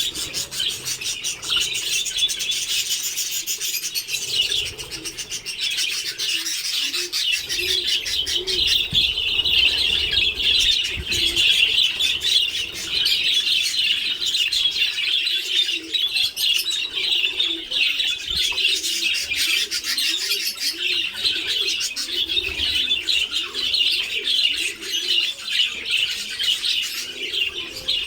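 A colony of budgerigars chattering and chirping without a break, many birds at once, with low arched cooing notes underneath.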